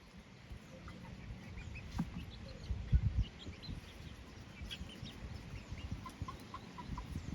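Chickens clucking, a scatter of short calls with a quick run of notes near the end; a couple of low, dull thumps come about two and three seconds in.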